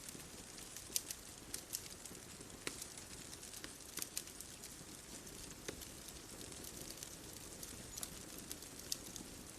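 Wood fire crackling: sharp, irregular pops and snaps over a soft, steady hiss.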